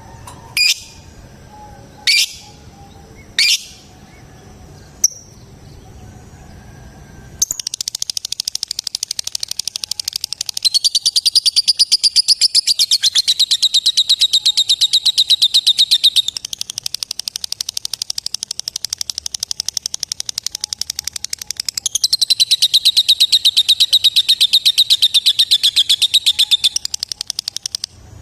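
Lovebird giving three short, sharp chirps in the first few seconds, then from about seven seconds in a long, unbroken, very rapid high-pitched chattering trill (ngekek) that runs for about twenty seconds, louder in two stretches.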